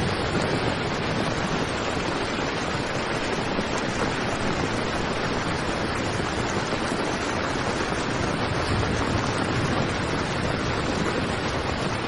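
Heavy rain falling steadily on a tent's fabric, an even rushing hiss.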